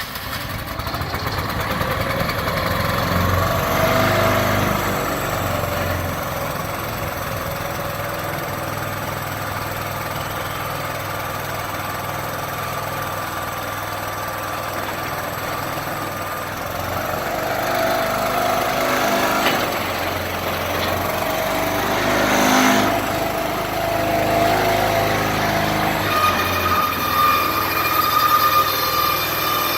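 An engine running steadily at idle, swelling a little at times, with a steady high whine joining near the end.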